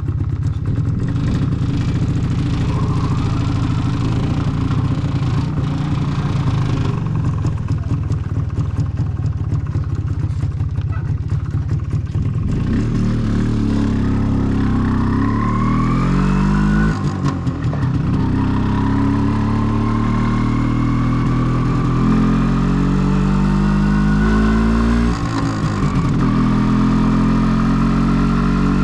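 MZ ETZ 250's single-cylinder two-stroke engine running through its original exhaust. It runs at low, steady revs, then the bike accelerates away: the pitch climbs, falls back at two gear changes and climbs again each time.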